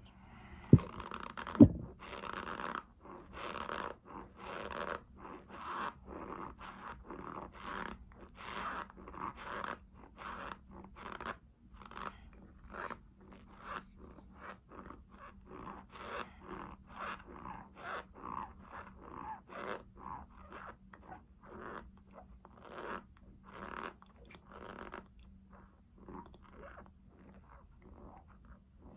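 Close-up chewing of crunchy cornstarch chunks, a rhythm of crunches at about two a second. Two sharp thumps, the loudest sounds, come in the first two seconds.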